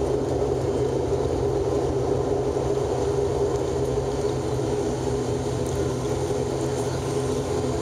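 Cabin noise of an ATR-72-600's turboprop engines and propellers: a steady drone with a low hum and a higher buzzing tone, heard from inside the cabin as the aircraft rolls on the runway after landing.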